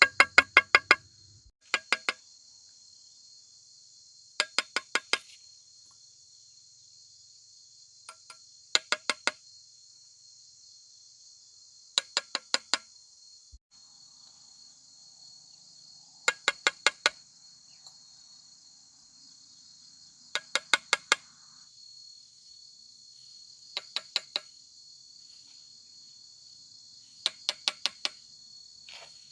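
Insects shrilling steadily at a high pitch. The loudest sounds are short bursts of four to six quick clicks, about six a second, repeating every three to four seconds.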